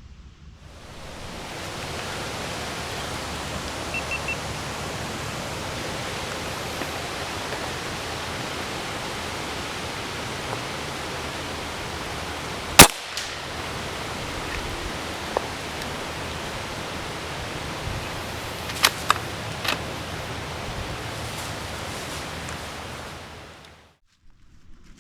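Strong wind blowing across the microphone as a steady rush of noise. About halfway through comes a single sharp, loud gunshot, followed some seconds later by a few faint clicks.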